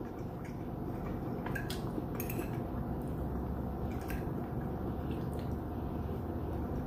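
Close-up eating sounds: chewing a mouthful of stir fry, with a few short clicks of a utensil against a dish.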